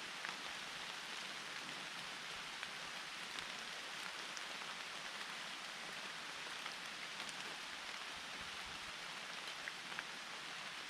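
Steady rain falling in a forest: an even hiss, with scattered single drops ticking close by.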